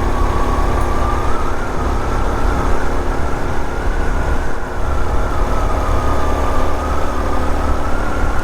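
Honda Super Cub 125's 125 cc single-cylinder engine running at a steady speed, with a low rumble under a steady high whine that wavers slightly in pitch.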